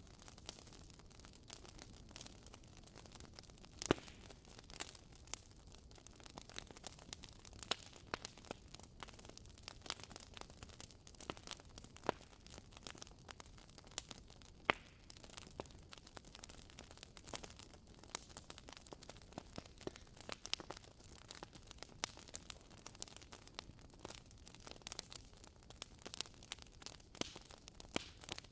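Wood fire burning in a fireplace: burning logs crackling with irregular small pops and snaps over a soft hiss, a few sharper pops standing out.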